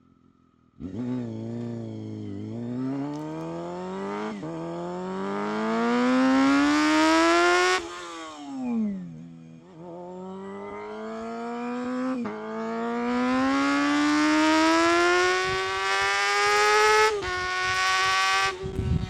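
Honda CBR250RR MC22's inline-four engine at full throttle, revving to a high scream and dropping in pitch at each upshift. It cuts in suddenly about a second in and pulls through two gears. Around the middle the revs fall away as the throttle closes and rise again, then three more climbing pulls follow, each broken by a shift.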